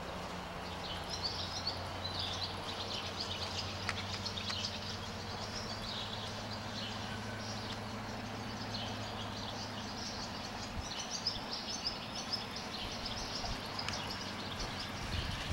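Small birds chirping and singing repeatedly over an outdoor background, with a low steady hum that fades out about two-thirds of the way through.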